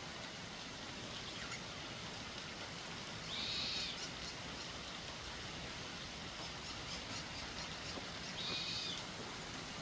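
Two short, high bird-like calls, about five seconds apart, over a steady hiss.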